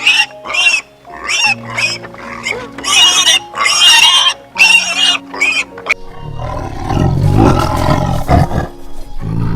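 Animal calls over background music: a run of short, high-pitched calls in the first six seconds, then a deep, rough roar-like call from about six seconds in.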